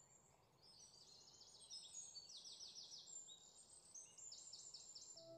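Faint bird song over near-silent room tone: quick runs of high chirping notes in two bouts, the second starting a little after the middle.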